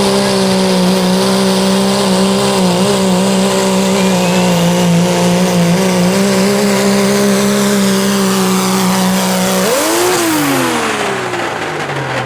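Pulling truck's engine held at high RPM under load, loud and steady, for about ten seconds. Near the end it revs up briefly and then winds down in a falling pitch as the driver lets off at the end of the pull.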